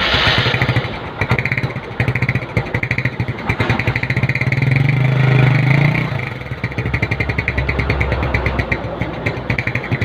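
Small automatic scooter's stock factory exhaust running with a rough, pulsing 'mberrr' burble produced by a paper-clip trick, not by drilling. It is revved up from about four seconds in and drops back to a pulsing idle after about six seconds.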